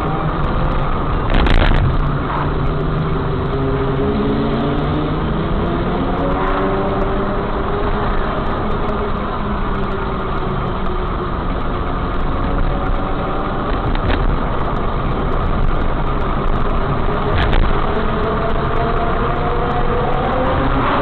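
Motorcycle engines running with a steady low rumble, their pitch repeatedly rising and falling as they rev. A brief loud noise comes about a second and a half in.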